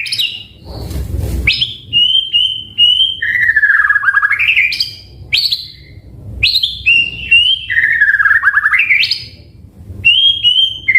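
White-rumped shama (murai batu) singing the same loud phrase over and over: a few short, steady whistles, then a long note that dips and sweeps sharply upward, about three times. A brief rustling noise comes about a second in.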